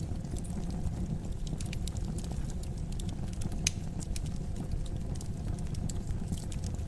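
Fire in a fireplace burning with a steady low rumble and scattered sharp crackles and pops, one louder pop about three and a half seconds in.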